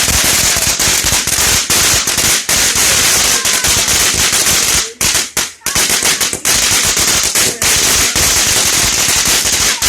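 Firework going off with rapid, near-continuous crackling pops over a steady hiss, easing briefly about five seconds in before crackling on.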